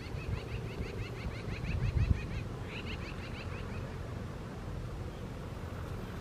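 A bird calling in quick runs of short chirps, about five a second, pausing briefly and calling again until about three and a half seconds in, over a low rumble with a stronger low thump about two seconds in.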